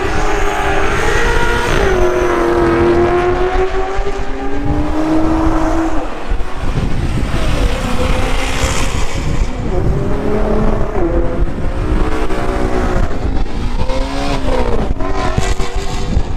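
Car engines revving loudly, the pitch climbing and dropping again several times over steady engine noise.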